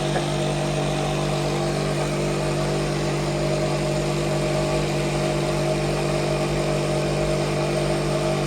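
Car engine idling steadily, with an even, unchanging pitch.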